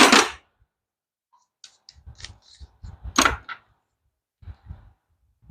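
Scattered clicks and knocks of hand tools being picked up and handled, the loudest about three seconds in.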